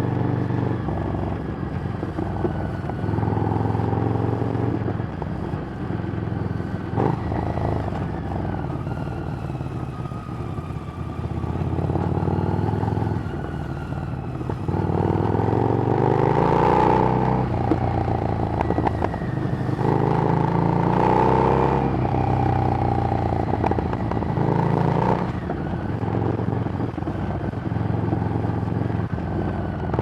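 Harley-Davidson Street Rod's 750 cc V-twin with a Screamin' Eagle exhaust, running under way; in the second half the revs rise and the exhaust gets louder a few times as the bike accelerates.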